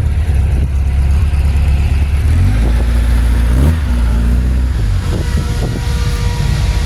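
A car engine's deep low rumble, with a couple of short revs about two and a half and three and a half seconds in.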